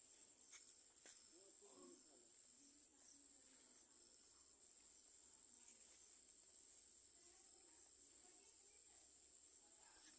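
Near silence, with a faint, steady high-pitched background tone and a few faint clicks.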